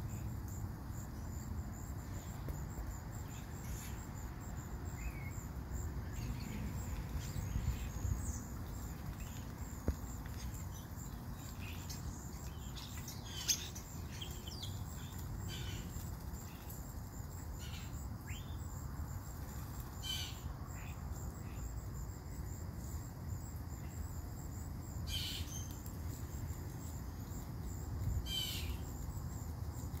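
Short bird calls and chirps scattered throughout, a few louder ones in the second half, over a steady high insect trill and a low steady rumble.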